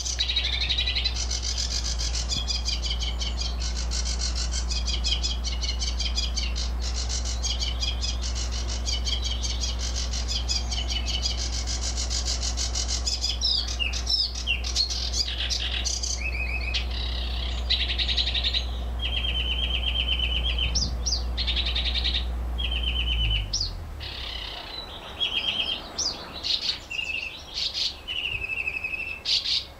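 Several songbirds singing in a garden: a busy mix of high chirps and twitters, joined in the second half by repeated short, even trills on one pitch. Under them a steady low hum runs until it cuts off about three-quarters of the way through.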